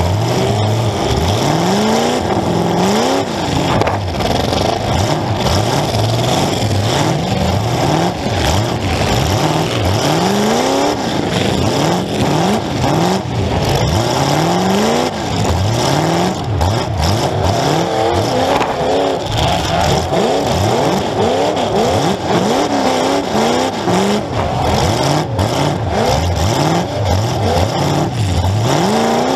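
Demolition derby car engines revving up and dropping back again and again, several engines overlapping, heard from on board one of the cars.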